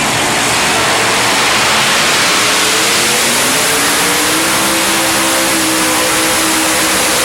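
A vehicle's engine speeding up, its pitch rising a few seconds in and then holding steady, over a loud steady rush of wind and road noise.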